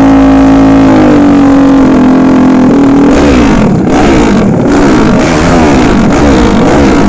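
Loud drag-racing motorcycle engines at high revs: one engine note held steady for about three seconds, then several engines revving up and down over one another.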